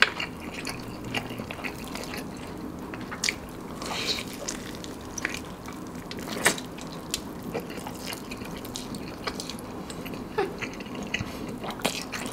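Close-miked eating: biting into and chewing fried chicken covered in melted cheese, with scattered wet smacks and clicks of the mouth.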